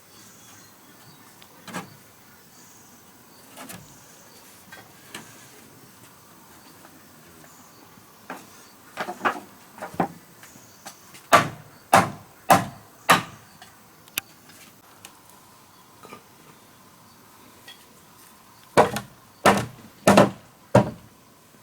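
Hand-tool blows on wood: a few light knocks, then two runs of four hard strikes about half a second apart, one near the middle and one near the end.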